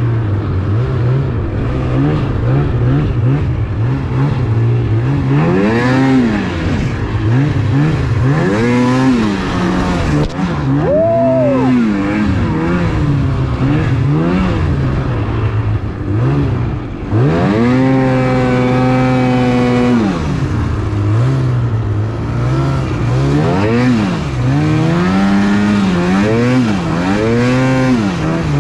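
Snowmobile engine revving up and down again and again, its pitch climbing and falling with each throttle push and dropping back to a low steady note in between. It is held high for a couple of seconds a little past the middle.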